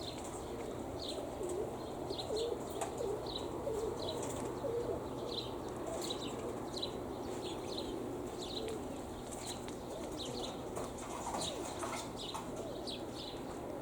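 Pigeons flapping their wings and cooing, with short high bird chirps repeating about twice a second.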